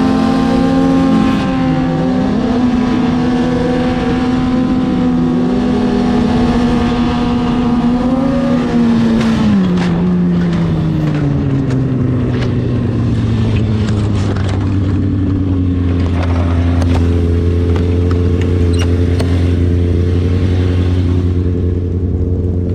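Sportbike engine running at a steady high pitch with two brief dips, then slowing about nine seconds in, its pitch falling to a lower steady run. Wind noise and scattered clicks run beneath it.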